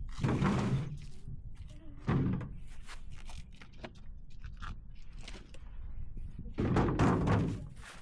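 Split firewood logs knocking heavily as they are dropped and set onto a woodpile: three loud wooden thunks, the longest and loudest near the end, with lighter clatter of wood between them.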